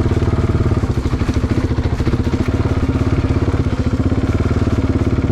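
Motorcycle engine running steadily at low revs, its even firing pulses clearly heard.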